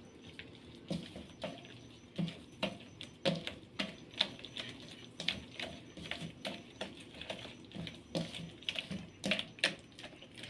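Spice pastes and ground spices being mixed together in a bowl for a chicken marinade: an irregular run of soft clicks, taps and wet squelches, a few a second.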